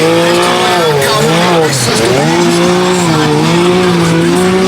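Off-road vehicle engine running hard at high revs while ploughing through mud, its pitch dipping about a second and a half in and climbing back up.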